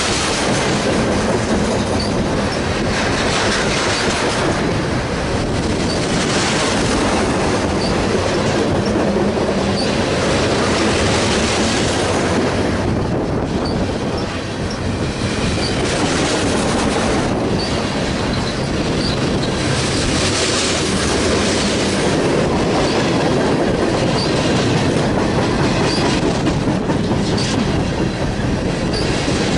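Slow-moving freight train cars rolling past close by, their wheels clattering over the rail joints with a repeat every two to three seconds and faint wheel squeal.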